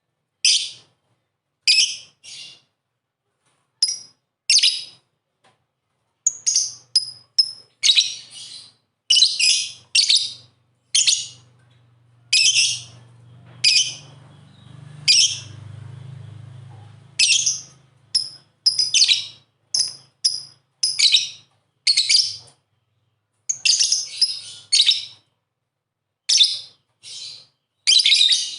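Lovebird chirping: short, sharp, high-pitched calls, some single and some in quick runs of three or four, with gaps between them. A faint low hum sits underneath through the middle stretch.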